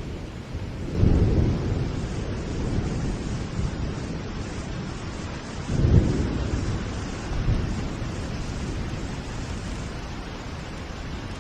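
Steady rain with thunder rumbling: a loud roll about a second in, another around six seconds in, and a softer one shortly after.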